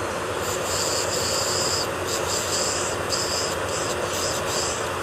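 Electric nail drill (e-file) grinding on a nail during a drill-off of old gel. A steady whirr sits under a higher, hissy grinding that cuts out and comes back several times, about every half second to second.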